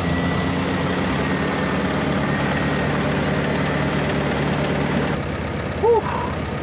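Off-road vehicle engine idling steadily; the engine note changes about five seconds in, and a brief voice is heard just after.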